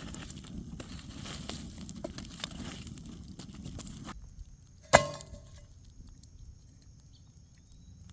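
Dense crackling and rustling with many small clicks, cut off abruptly a little past halfway. About a second later comes a single sharp clink that rings briefly.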